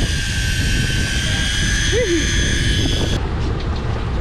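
Electric deep-drop fishing reel winding in line with a steady high whine over the rumble of the boat, cutting off about three seconds in.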